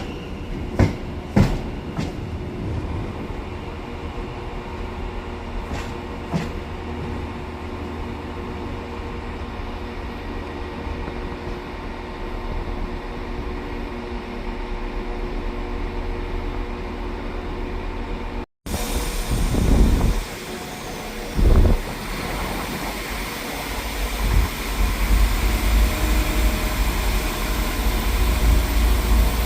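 A passing train: a steady hum with a few sharp clicks in the first couple of seconds. The sound then cuts out abruptly and is replaced by a louder low rumble with two loud thumps.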